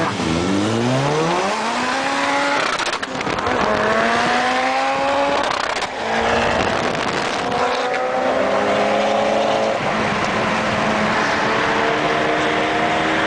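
Mitsubishi Lancer Evolution VIII's turbocharged four-cylinder engine accelerating hard through the gears. The pitch climbs, drops back at each of three gear changes and climbs again, with sharp exhaust pops around the first two shifts.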